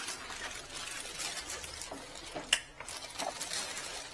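Plastic bag rustling and crinkling as parts are packed into it, with one sharp click about two and a half seconds in.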